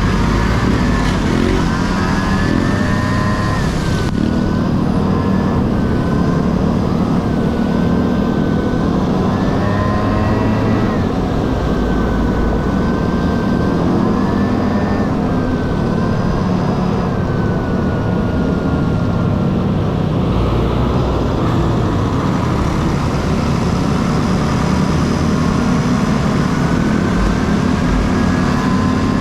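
A Honda Dio AF18's two-stroke scooter engine running on the move. Its buzzing pitch rises and falls slowly with the throttle over a steady low rumble.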